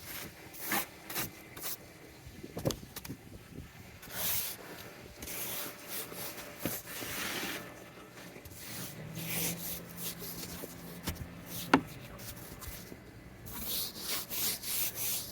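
Hard, wet, sticking snow being scraped off a car in repeated strokes, with a quicker run of strokes near the end and one sharp click about twelve seconds in.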